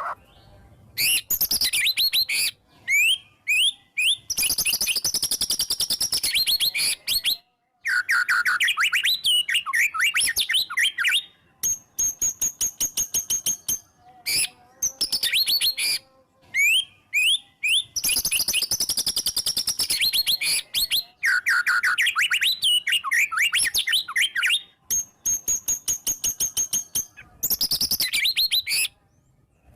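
White-rumped shama (murai batu) singing loudly in bursts of varied phrases, sharp whistled notes and fast chattering trills, a few long held high notes among them, with short pauses between phrases. The varied fills are typical of its mimicry of other birds.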